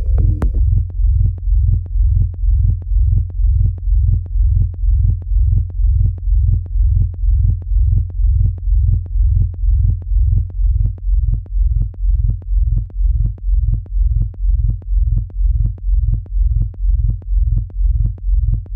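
Electronic kick drum with deep sub-bass playing alone in a loop, a steady four-on-the-floor beat of about two hits a second, each with a short click on top of the low thump. A higher synth part drops out about half a second in.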